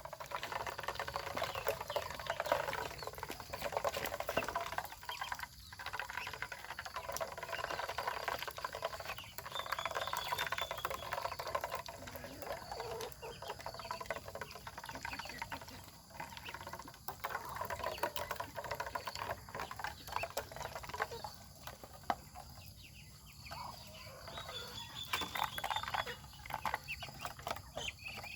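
A family of ducks feeding: a continuous busy patter of bills dabbling and pecking at food, with short high calls now and then.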